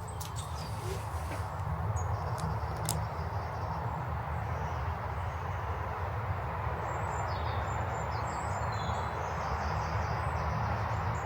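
Small woodland songbirds giving short, high chirps and calls on and off, over a steady rushing background noise.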